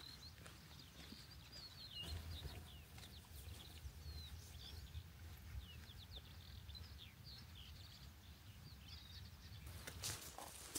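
Faint songbirds chirping and calling in short quick notes, over a low steady rumble; a few sharp clicks near the end.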